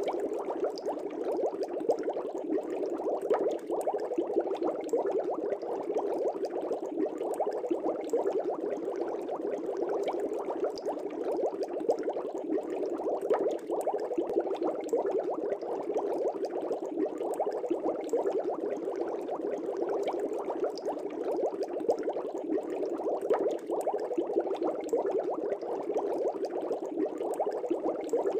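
Aquarium air bubbles rising and popping at the water surface in a continuous dense bubbling, steady throughout.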